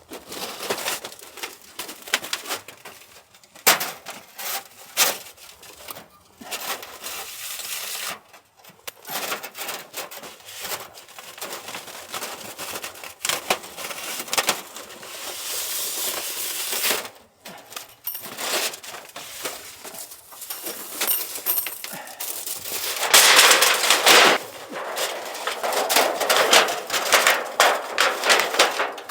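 Irregular clicks, clinks and rustling of camping gear being handled, with a louder, denser rustle near the end.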